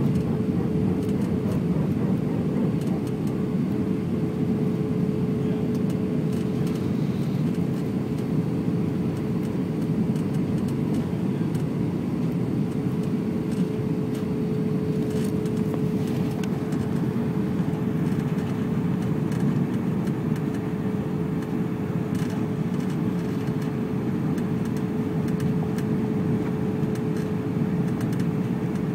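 Steady cabin noise inside an Airbus A320 airliner in flight: a constant rush of engine and airflow noise with a steady hum tone running through it, and a few faint ticks.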